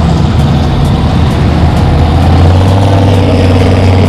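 Drag-racing truck engine running loud and steady at low revs.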